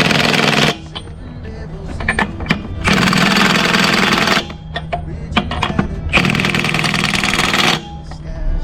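A cordless power tool running in three bursts of about a second and a half each, with short pauses between them.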